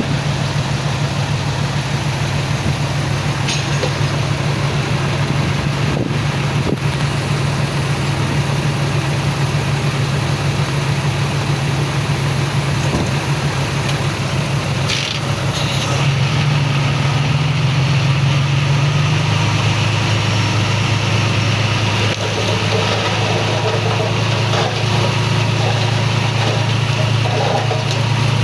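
Heavy diesel earthmoving engine running under load, a steady low drone that shifts pitch about sixteen seconds in and again a few seconds later as it works.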